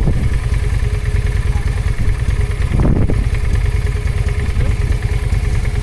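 Motorcycle engine idling steadily with a fast, even low pulse, with a brief rush of noise about three seconds in.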